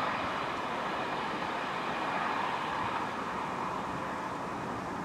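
Diesel multiple unit running away along the line, a steady engine and wheel rumble fading slowly as it draws away.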